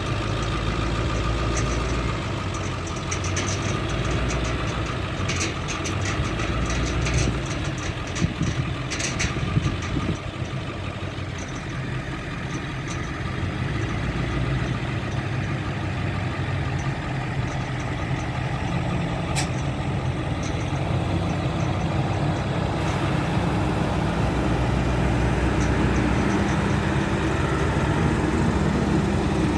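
Heavy farm machinery diesel engine running steadily, with a few sharp clicks or knocks over the top.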